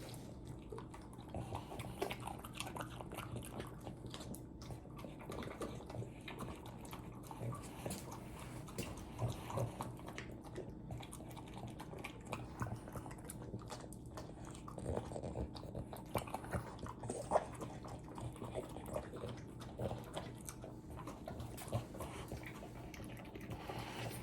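French bulldog chewing and crunching on a dog treat, with irregular wet bites and crunches.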